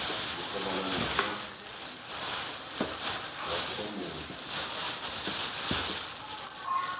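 Small objects being handled and moved about, with a few light knocks and clicks over a steady hiss.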